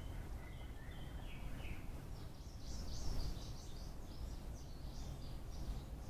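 Birds calling over a steady low outdoor rumble: a few short notes in the first two seconds, then a run of quick, higher chirps from about two seconds in.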